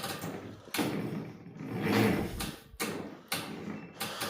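International Harvester W-9 tractor's engine being cranked by its starter in the cold without catching, turning over slowly in uneven surges: the battery is weak.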